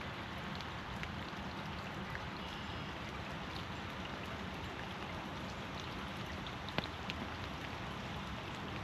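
Steady rain falling, mixed with water rushing over a small dam, with scattered raindrop ticks and one sharper tap late on.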